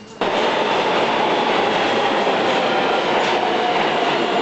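New York City subway train running, a loud steady rushing noise that starts abruptly just after the beginning.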